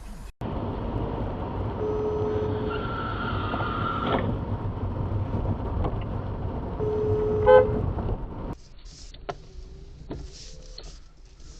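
Car driving, with steady road and engine noise and two short steady horn toots about five seconds apart. The noise drops away about three seconds before the end.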